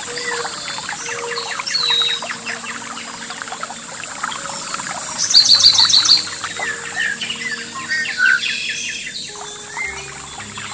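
Several songbirds chirping and calling, with one loud, rapid trill of about eight notes a little after five seconds in. Faint held low tones sit underneath.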